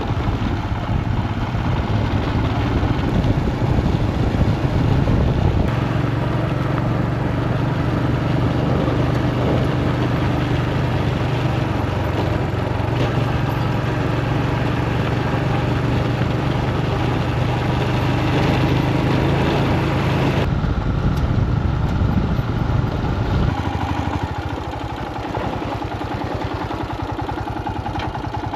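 Royal Enfield Himalayan single-cylinder motorcycle engine running at a steady road speed, mixed with wind and road noise. About two-thirds of the way through the sound changes and gets a little quieter, the high-pitched road and wind noise dropping away first.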